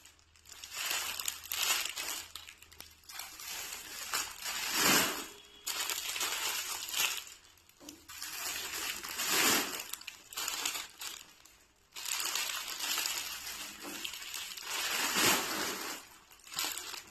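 Rustling and crinkling of scarves and their packaging being handled and unfolded, in irregular swells with short pauses between.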